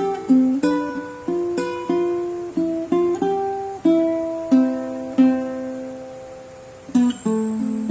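Solo plucked string instrument playing a slow melody, single notes and chords plucked and left to ring out, with one long note fading for a couple of seconds before a new chord is struck near the end.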